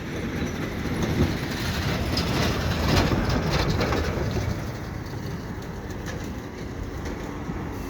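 Double-stack container cars rumbling along the rails, with a run of clanks and clicks as wheels and couplers work. The rumble swells about a second in and eases off after about five seconds.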